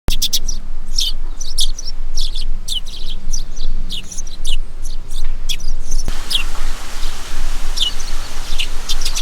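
Wild birds chirping: a quick run of short, falling chirps over a steady low background noise, which shifts abruptly about six seconds in.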